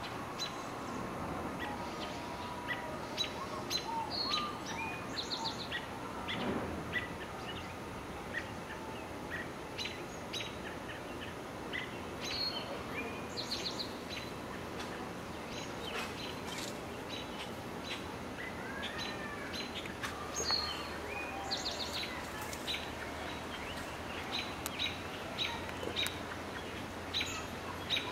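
Small songbirds chirping and calling on and off: short high chirps and a few quick trills, over steady outdoor background noise.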